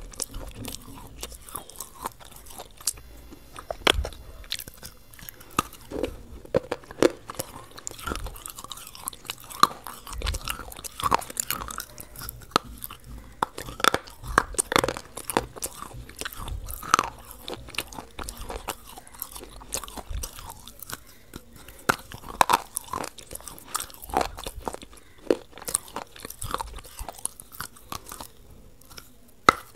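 Close-miked biting and chewing of a frozen ice cream bar, with many irregular wet clicks and crunches from the mouth.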